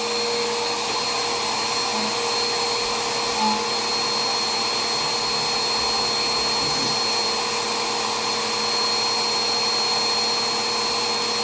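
Vacuum cleaner running steadily while vacuuming, a constant rush of air with a steady motor whine.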